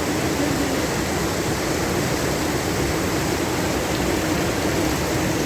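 Heavy rain falling: a steady, dense hiss with no breaks.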